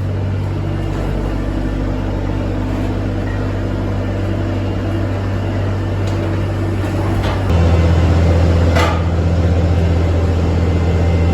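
A loading machine's engine running steadily. At about two thirds of the way in it abruptly steps up louder and heavier. A single sharp clank comes a second later.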